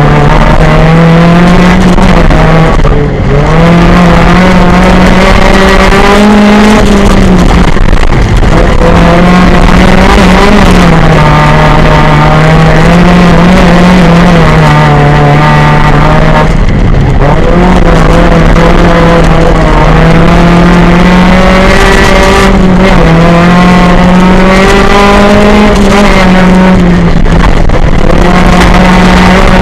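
Engine of an up-to-1600 cc autocross race car heard very loud from inside the cabin, running hard under load. Its pitch rises and falls continually, with a few brief drops in the engine note about 3, 8, 17, 22 and 27 seconds in.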